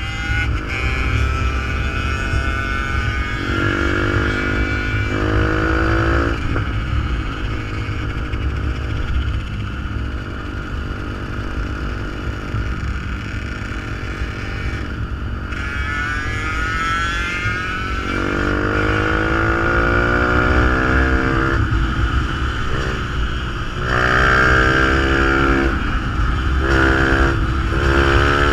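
Fantic 125 supermoto's engine through a GPR exhaust, accelerating several times. Its pitch climbs in runs and drops back at each gear change, over a steady low rumble.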